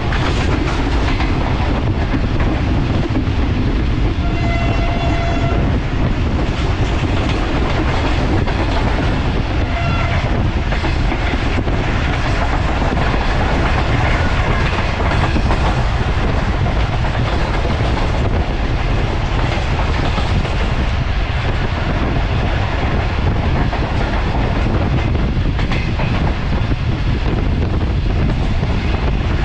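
Sir Syed Express passenger train running at speed through a station without stopping, its wheels clattering over the rails under a steady rumble. A train horn sounds once, for about a second and a half, about four seconds in.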